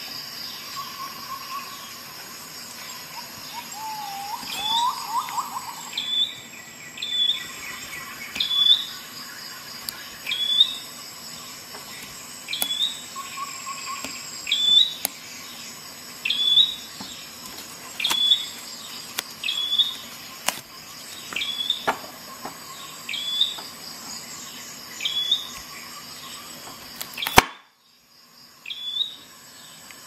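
A bird calling over and over: a short, high, hooked chirp about every two seconds, with a lower wavering whistle a few seconds in. A single sharp click comes near the end.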